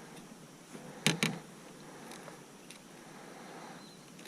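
Two sharp knocks in quick succession about a second in, over a faint steady background hiss.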